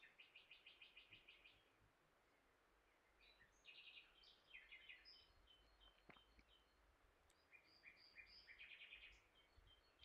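Near silence with a small bird faintly chirping and trilling in the background, in three short bouts of quick high notes.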